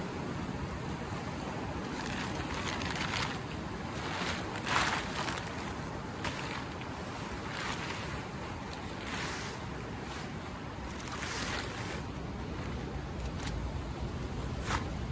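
Outdoor ambience: a steady low rushing noise with a hissing swell every second or two, and a few sharp clicks near the end.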